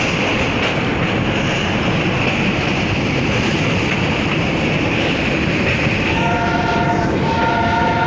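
Train running with a steady rumble and rail noise; about six seconds in its horn sounds twice, a short blast and then a longer one.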